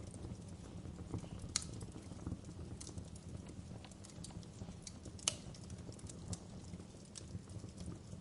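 Campfire crackling: irregular sharp pops and snaps over a steady low rumble of the burning fire, with two louder pops, one a little after a second and a half in and one about five seconds in.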